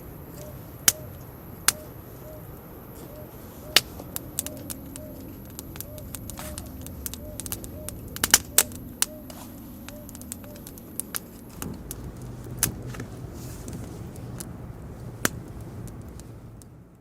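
Wood campfire crackling, with sharp irregular pops over a low steady rush.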